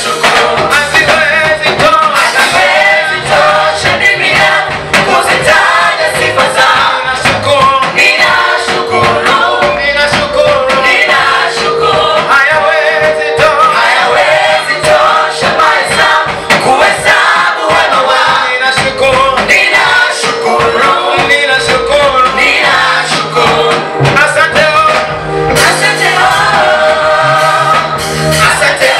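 Gospel praise music: a group of voices singing together over instrumental accompaniment with a steady bass line, playing continuously.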